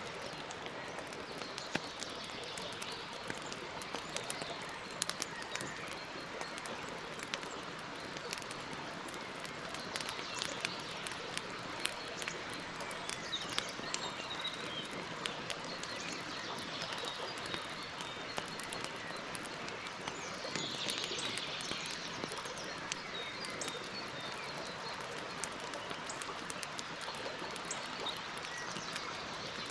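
Wood campfire crackling, with frequent sharp pops over a steady hiss. Birds chirp in the background, most clearly near the middle and about two-thirds of the way through.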